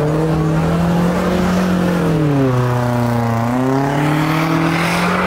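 Car engine revving hard and held at high revs. Its pitch sags between about two and three and a half seconds in, then climbs back, with a hiss building near the end.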